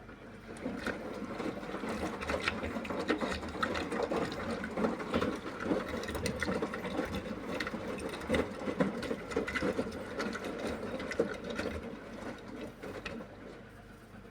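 Beko WMY81283LMB2 washing machine rinsing, its drum churning with many light clinks and clicks, the 'glass sounds'. It starts about a second in and dies down near the end.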